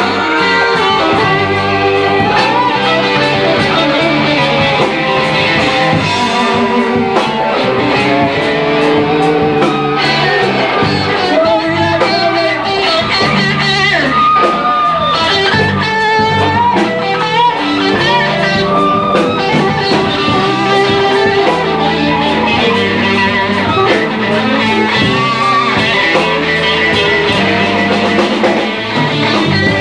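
Live blues-rock band playing, with guitar to the fore over a steady drum beat.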